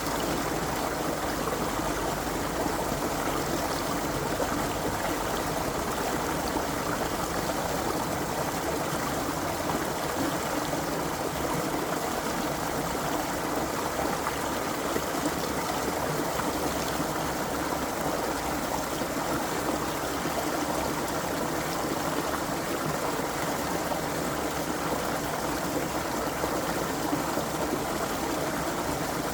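A creek's water running steadily, a continuous even rush with no breaks or changes.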